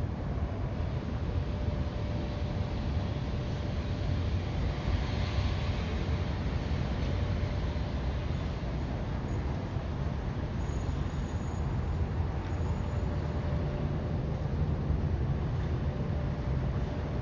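Steady low rumble of city traffic noise, with a faint hiss swelling briefly about five seconds in.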